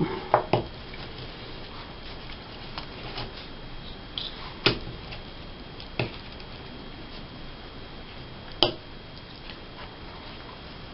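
Quiet handling of magazine pages and paper on a table, with three sharp light taps about five, six and eight and a half seconds in.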